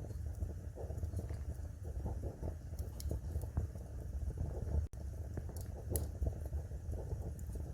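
Wood fire burning in a fireplace, crackling with scattered sharp pops over a low steady rumble; the sound cuts out for an instant about five seconds in.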